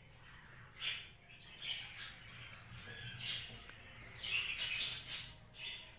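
Budgerigar chirping in short separate calls, with a quicker run of calls after about four seconds. A faint steady low hum sits underneath.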